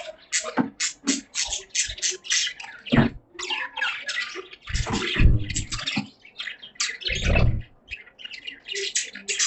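Budgies chattering: a busy, continuous stream of short, rapid high chirps and squawks. Two brief low-pitched noises stand out, one about halfway through and one about three quarters of the way in.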